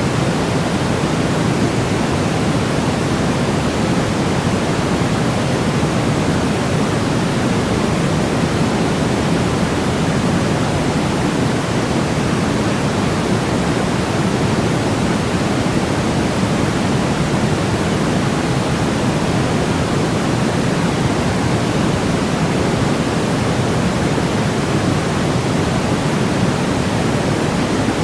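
Steady synthetic noise of the kind sold as white noise, weighted toward the low end: an even, unbroken hiss with a deep rushing body and no changes.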